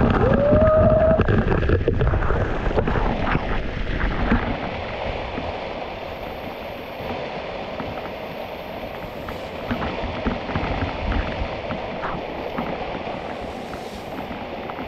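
Rushing water from a waterfall with wind buffeting the microphone, loudest for the first few seconds and then steadier. A short rising tone sounds near the start.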